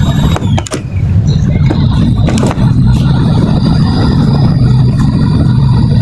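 A tugboat's diesel engine running loud and steady with a low rumble, with a few sharp knocks in the first couple of seconds.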